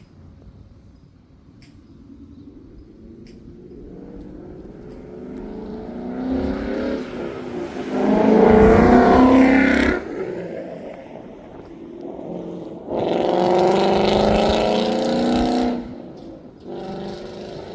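2015 Ford Mustang GT's 5.0 V8 through a Roush cat-back exhaust, accelerating hard. The engine note builds up and rises in pitch, cuts off suddenly about ten seconds in, comes back loud about three seconds later, then drops off again.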